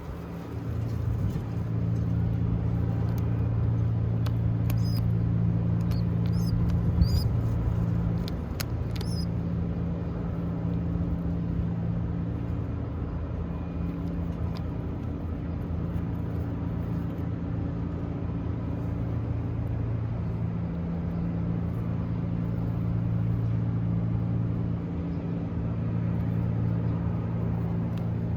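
A steady low hum runs throughout. A few short, high-pitched, rising peeps come between about four and nine seconds in.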